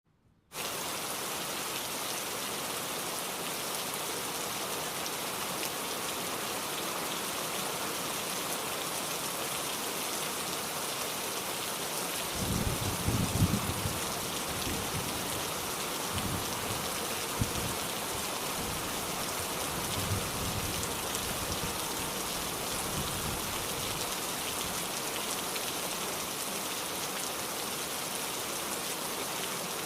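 Steady heavy rain, an even hiss. From about twelve seconds in, low rumbles come and go beneath it, loudest just after they begin.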